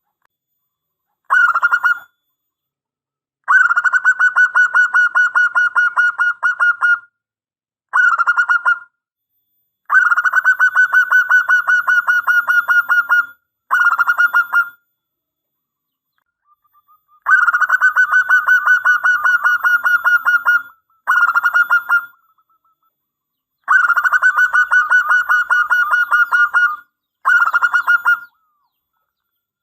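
Zebra dove (perkutut) singing long phrases of rapid, evenly pulsed cooing notes, about nine of them. The shortest last under a second and the longest about three and a half seconds, with brief pauses between.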